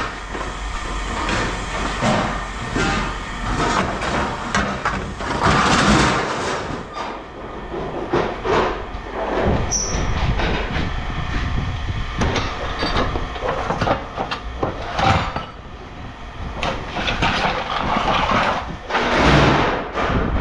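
Scrap metal clanking and rattling as it is handled, in a dense run of irregular knocks and clatters.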